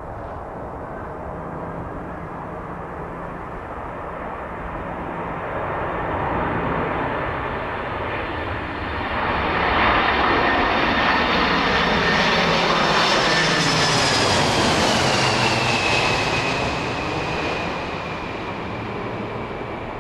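Boeing 747-400 jet airliner on a low landing approach, its four turbofan engines roaring as it passes close by. The roar builds to its loudest about halfway through, and a high engine whine drops in pitch as the aircraft goes past, then eases off.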